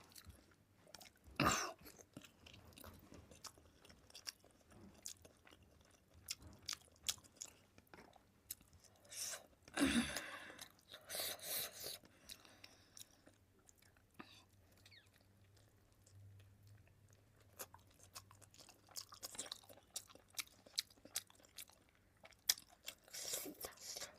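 Close-miked chewing and crunching of food, with many small wet mouth clicks throughout and a few louder bites or smacks: one about a second and a half in, a pair around ten to twelve seconds, and one near the end.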